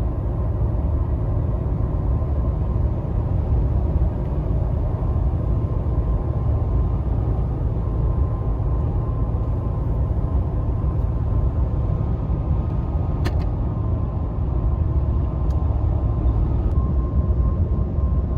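Steady low rumble of a Ford F-150 pickup truck on the road: engine and tyre noise heard from inside the cab, with a few faint clicks.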